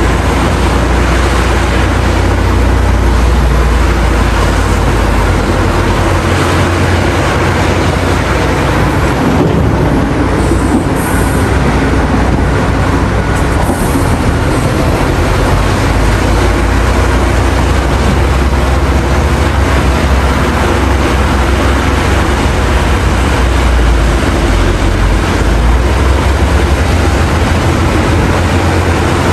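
Heavy diesel mining machinery running: a loud, steady low engine rumble with a noisy haze over it.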